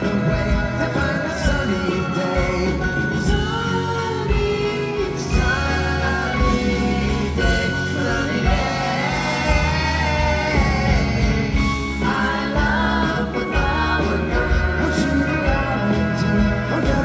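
Live 1960s-style sunshine pop played by a rock band: sung vocals with harmonies over a steady bass line and drum beat.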